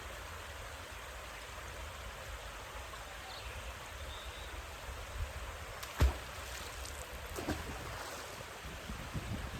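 Steady outdoor hiss with a low rumble, broken by one sharp knock about six seconds in and a few fainter knocks after it.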